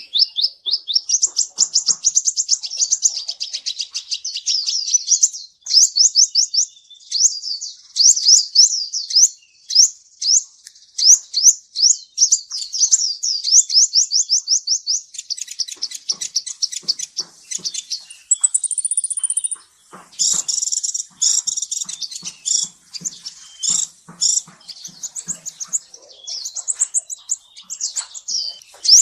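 Kolibri ninja sunbird singing: rapid, high-pitched twittering in long runs of quick notes, broken by short pauses, the song used to spur a caged bird into singing.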